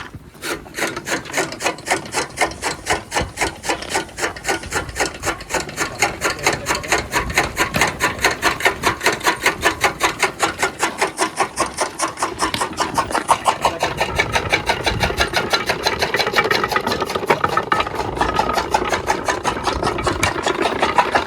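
Chaff cutter chopping fodder: a quick, steady rhythm of rasping cuts as the blades work through the stalks.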